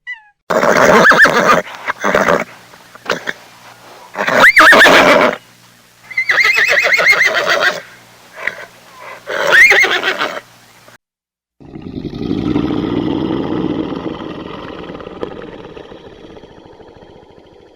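A horse neighing, about four loud, wavering whinnies in a row, followed by a long, lower, rough call of about six seconds that fades away near the end.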